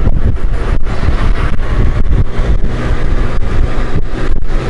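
Heavy wind buffeting on the microphone of a moving Honda Gold Wing motorcycle, over the steady low drone of its engine.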